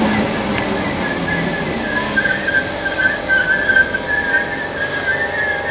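Class 313 electric multiple unit moving away, its rumble fading over the first couple of seconds. A high, wavering whistle-like tone goes on throughout and is the loudest thing once the train has gone.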